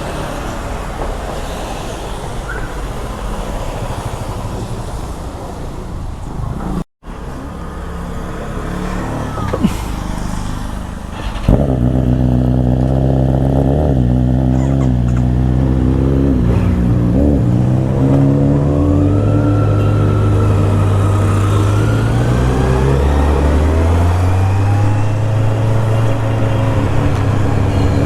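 Road and wind noise on the move, then after a cut an engine pulling hard, its note rising and dropping back in steps as it runs up through the gears.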